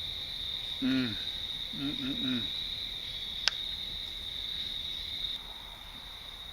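Crickets chirring in a steady high chorus. A man makes two short humming "mm" sounds while tasting and chewing, about one and two seconds in, and there is a single sharp click halfway through.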